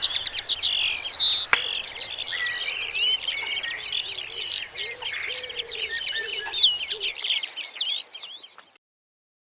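Many songbirds calling and singing at once, a dense mix of chirps and whistled phrases, fading out and cutting to silence near the end.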